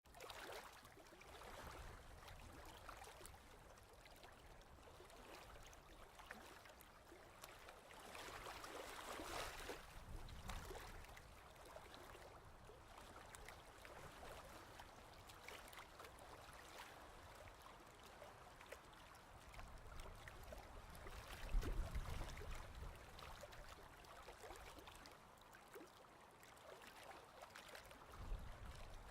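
Faint ocean waves washing in, with a soft hiss that swells twice, once about a third of the way in and again about two-thirds in, with a low rumble.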